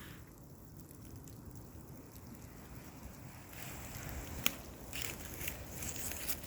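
Low wind rumble on the microphone, joined about halfway by rustling and crackling with one sharp click.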